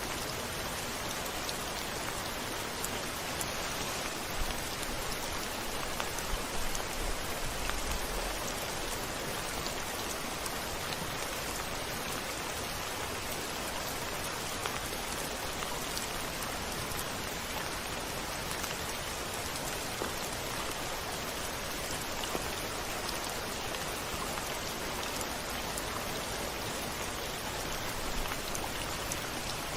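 Steady rain with scattered drop ticks, and a brief low rumble of thunder about seven seconds in.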